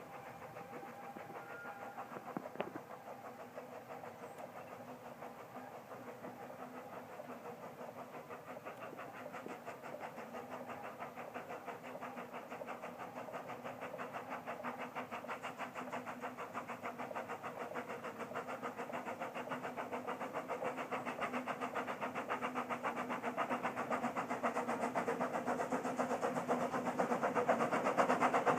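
Orenstein & Koppel 0-4-0T narrow-gauge steam locomotive working hard up a gradient. Its exhaust beats come in a fast, steady rhythm and grow steadily louder throughout.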